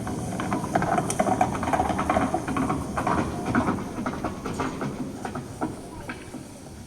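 Storm sound effects played over the show's loudspeakers: a hissing rush of rain and wind with a rapid patter of beats, slowly fading.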